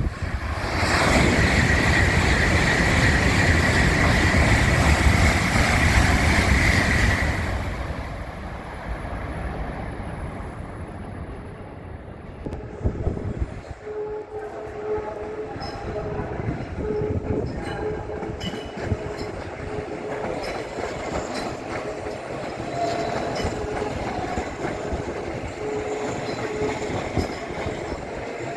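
A Tokaido Shinkansen train passing through the station at speed without stopping: a loud rush of wind and rail noise with a steady high tone in it, lasting about six seconds and ending abruptly as the last car goes by. Quieter train and station noise follows, with a lower tone that comes and goes in the second half.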